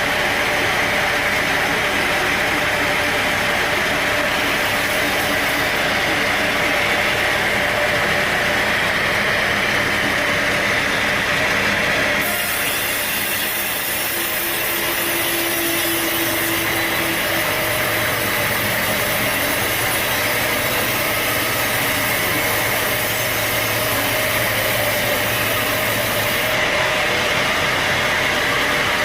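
Sawmill machinery running steadily while a saw cuts through a log. The sound changes abruptly about twelve seconds in, as if at an edit, then carries on at a similar level.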